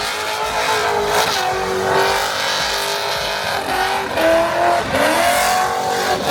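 Race car engines running at high revs, the pitch held steady and then climbing as they rev up past the middle.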